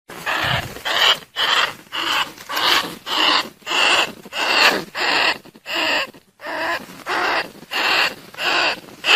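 Bandicoot rat calling over and over, short harsh squeals about two a second: a decoy call played to lure bandicoot rats.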